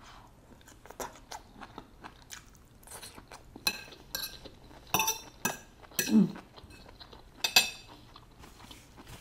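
Close-up chewing of a mouthful of carrots and asparagus, with irregular crunches and wet mouth sounds. There is a short hum of the voice about six seconds in.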